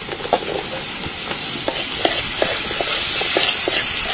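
Pig liver slices sizzling in hot oil and garlic in a wok, with a metal spatula scraping and knocking against the pan as it stirs, about two or three strokes a second.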